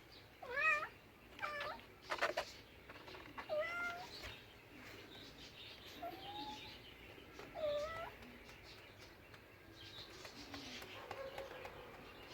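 A cat meowing: a series of about five short meows in the first eight seconds, several bending up and down in pitch.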